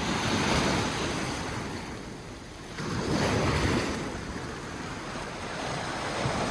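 Sea waves breaking on the shore, surging in two swells with a lull between, with wind buffeting the microphone.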